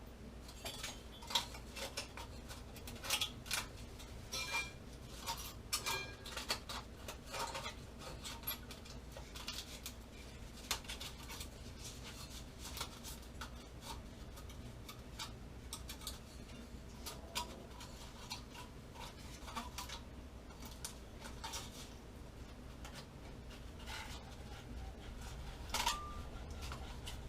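Metal tools and parts being handled: scattered light clicks and clinks, more frequent in the first several seconds, with a sharper clink near the end.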